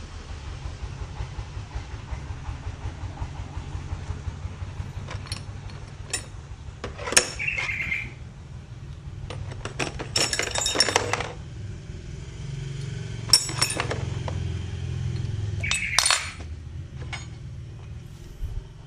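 Metal tools clinking and rattling a few times, in short groups, while working on a car engine, over a steady low rumble. Two of the clinks leave a brief ringing tone.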